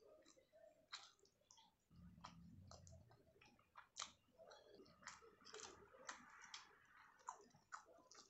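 Faint chewing of food, with many soft wet mouth clicks and smacks and a brief low rumble about two seconds in.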